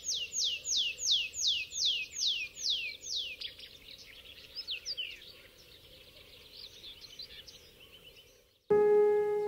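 A songbird singing a run of clear whistles, each sliding downward in pitch, about three a second for the first three seconds, then fainter scattered chirps over a low steady background. Music starts abruptly near the end.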